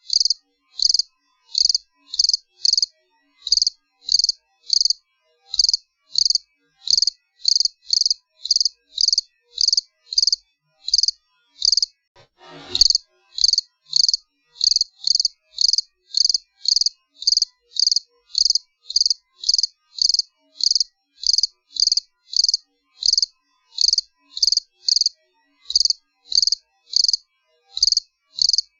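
A cricket chirping: short, high-pitched chirps, a little under two a second, with brief silence between them. About halfway through, a single short sound sweeps from high to low pitch.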